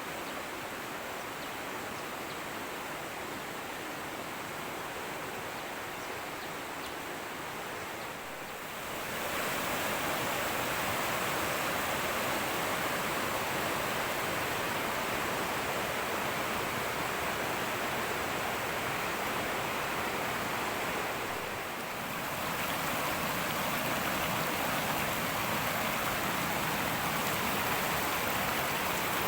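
Fast-flowing river water rushing over rocks, a steady wash of noise. It grows louder about a third of the way in, dips briefly about three quarters through, then comes back up.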